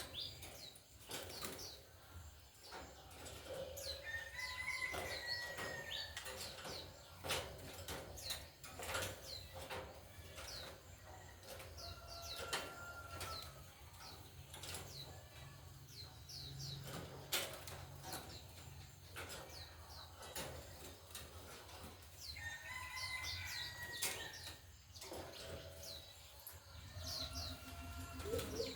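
Pet songbirds chirping in short, high, falling notes, with a few longer whistled notes, amid many quick clicks and wing flutters.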